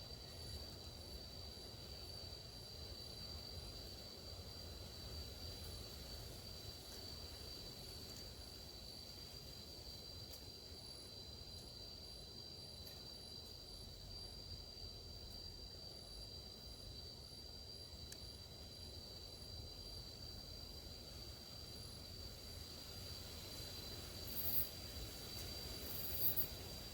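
A steady high drone of insects, holding two close, level pitches, with faint rhythmic ticking above it and a low rumble underneath. Two brief, sharp noises stand out near the end.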